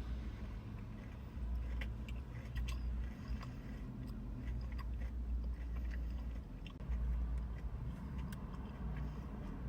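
Close-up chewing and biting, with small wet mouth clicks scattered through the middle. A steady low rumble runs underneath.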